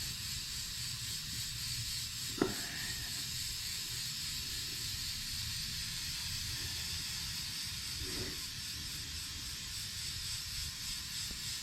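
Aerosol can of PJ1 foam filter oil spraying a steady hiss onto a foam air filter, with a light knock about two and a half seconds in.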